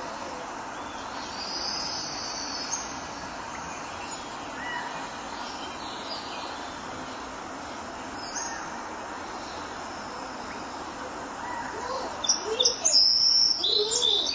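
Small birds chirping over steady background noise, with a louder run of quick high chirps near the end.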